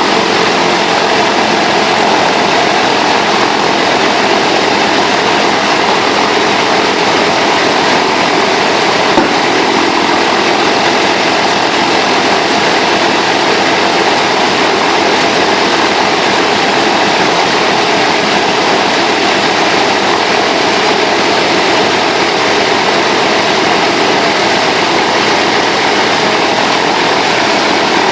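Shvetsov ASh-62IR nine-cylinder radial engine of an An-2 biplane running steadily with its propeller turning, during a ground run-up after long storage. A single brief tick sounds about nine seconds in.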